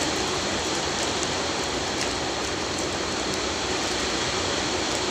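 Heavy rain falling, a steady even hiss with a few faint clicks.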